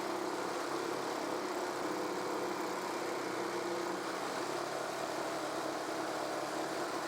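Jigsaw mounted upside down under a table, its motor running steadily while the blade saws through a wooden workpiece.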